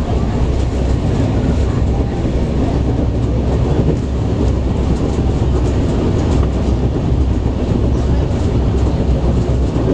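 Passenger train running at speed: a steady, loud rumble of wheels on the rails.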